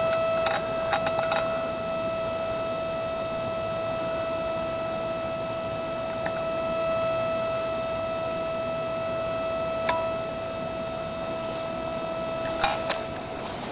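Loud steady electronic hum with a ringing overtone series: interference from the radio-control transmitter bleeding into the camera's electronics. A few faint clicks sound about a second in and again near the end.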